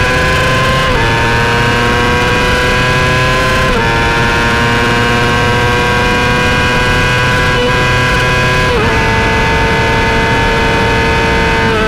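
Onboard racing motorcycle engine running hard at high revs, accelerating down a straight. It climbs slowly in pitch and shifts up three times, about one, four and nine seconds in, over steady wind rush.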